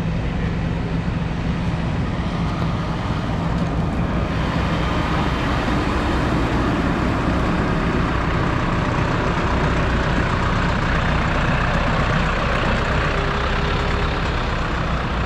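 Tractor diesel engine running steadily under way, with a continuous even drone and road noise.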